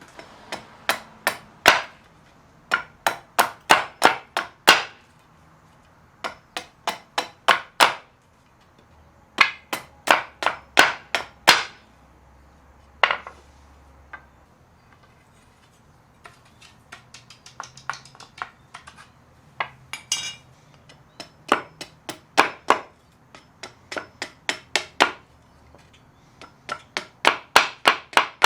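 Hammer blows during work on a vintage garden cultivator, in runs of several quick strikes with short pauses between the runs.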